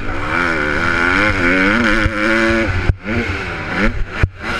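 Honda CRF150R motocross bike's single-cylinder four-stroke engine revving hard at racing pace, its pitch rising and falling with the throttle. The throttle is briefly chopped twice, about three seconds in and again near the end.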